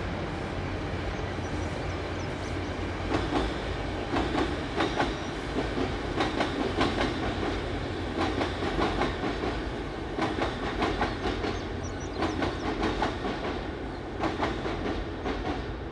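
Passenger train crossing a steel trestle viaduct: a steady low rumble with the wheels clicking over rail joints in repeated clusters as the coaches roll past.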